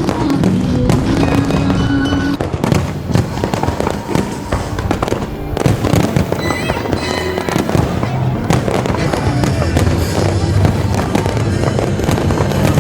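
Fireworks bursting in quick succession, many sharp bangs and crackles, over loud music.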